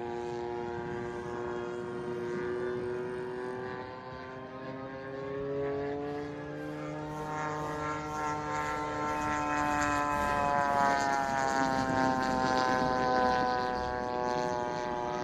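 Engine and propeller of a large-scale RC Spitfire model in flight, a steady drone whose pitch climbs slowly and then falls away after about ten seconds.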